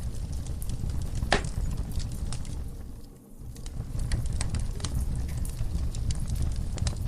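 Wood fire in a fireplace crackling, with scattered sharp pops over a low steady rumble. One pop about a second in is louder than the rest, and the whole sound dips briefly near the middle.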